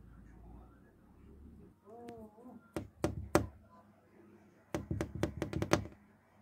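A brief cat yowl, followed by sharp knocks: three close together, then a rapid run of about eight in just over a second.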